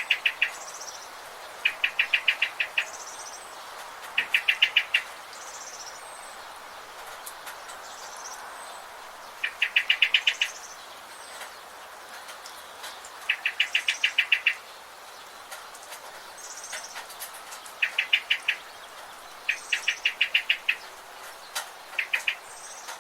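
Forest birds calling: one bird repeats a fast rattling trill of about eight to ten quick notes, under a second long, every few seconds. Fainter, higher chirps from other birds and a steady background hiss run under it.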